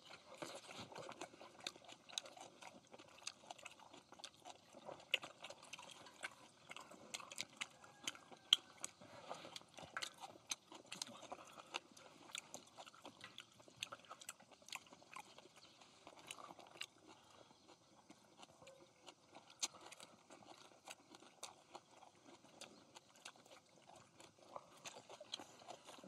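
People chewing and lip-smacking as they eat grilled pork belly wrapped in leafy greens: soft, irregular wet clicks and crunches, several a second.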